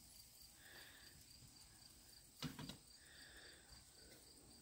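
Near silence with faint outdoor ambience and faint insect-like chirping, broken by one brief soft knock about two and a half seconds in.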